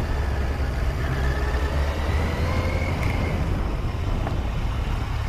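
Steady low rumble of a moving vehicle's engine and tyres on the road, as picked up by a dash camera. A faint whine rises slowly in pitch over the first few seconds.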